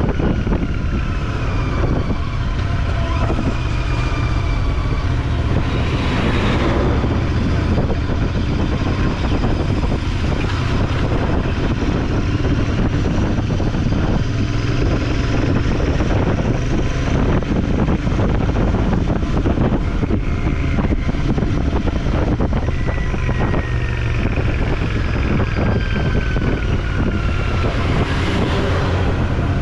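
Motor vehicle running on the road, most likely the motorcycle being ridden, with a steady low engine hum and road and wind noise. A few slowly falling whines pass over it.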